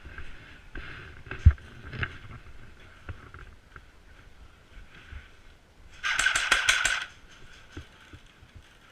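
A sharp thump about a second and a half in. About six seconds in comes a rapid burst of airsoft gunfire, some seven shots in about a second.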